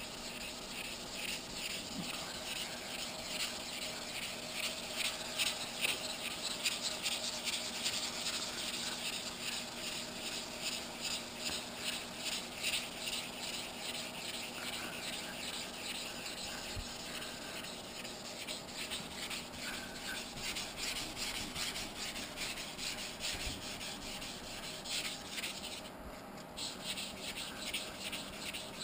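Wet 600-grit sandpaper on a sanding block rubbing over a primed motorcycle gas tank, in steady, repeated back-and-forth strokes.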